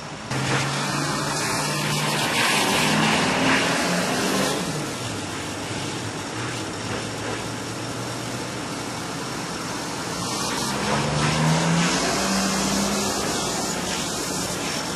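Vehicle engines running close by, their pitch rising twice, a few seconds in and again about ten seconds in, over a steady rushing noise.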